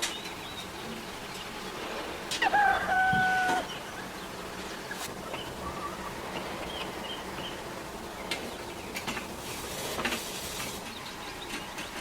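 A single loud, held animal call, most likely a bird, lasting about a second and starting a little over two seconds in, with scattered sharp clicks and a short hiss near the end.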